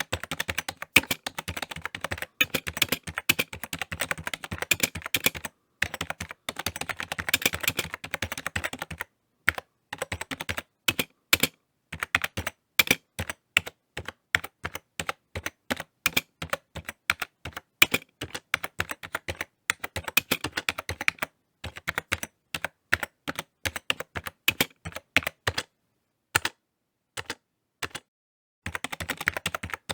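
Typing on a computer keyboard: fast runs of keystrokes for about the first nine seconds, then slower, separate key presses with short pauses. A gap of about two seconds near the end, then fast typing resumes.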